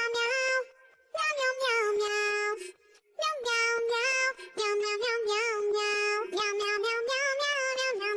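A high-pitched voice singing a song, with long held notes and short pitch bends, pausing briefly about a second in and again about three seconds in.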